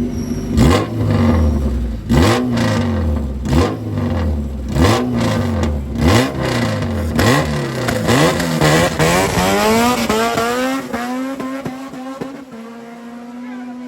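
Modified Honda four-cylinder drag car engine revved hard about six times in quick succession. It then pulls away, its pitch climbing as the sound fades, leaving a car idling steadily near the end.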